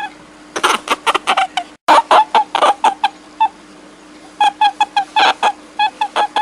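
Animal calls: short, pitched squeaks and clucks in quick runs of several a second, with a faint steady hum underneath. All sound cuts out for a moment just before two seconds in.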